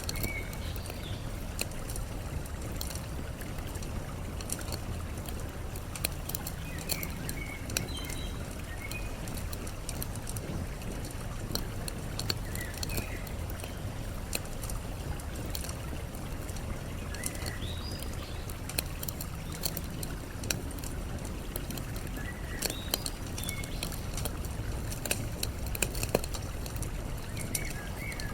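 Campfire crackling with frequent sharp pops, over a steady low rush of flowing water. Short bird chirps come in every few seconds.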